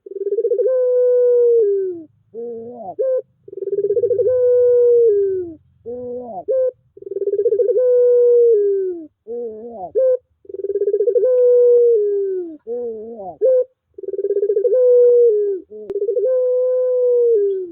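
Puter pelung dove cooing in one repeated phrase, about every three and a half seconds: a short wavering note, then a long, drawn-out coo that falls slightly at its end. This is a lure call, played to get a puter that has gone quiet to start singing again.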